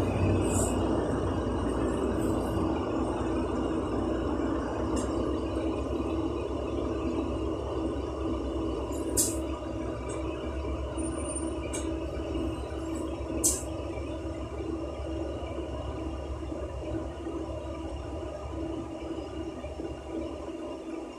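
Ride noise heard from inside a LiAZ 6213.65 articulated bus under way: a steady low drive rumble with a constant hum, growing gradually quieter. Two sharp knocks or rattles come from the body, about nine and thirteen seconds in.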